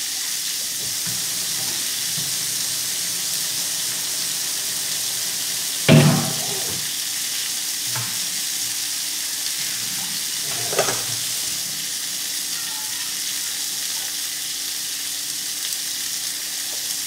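Food frying in a skillet on a gas burner, a steady sizzle. A sharp thump about six seconds in, and a smaller knock a few seconds later.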